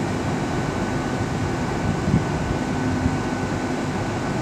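Class 158 diesel multiple unit pulling out of the station: a steady diesel rumble with a constant hum.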